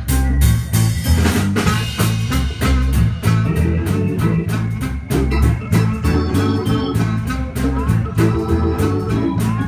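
A blues-rock band playing an instrumental intro: drum kit keeping a steady beat under a repeating bass line, with Hammond organ and electric guitar.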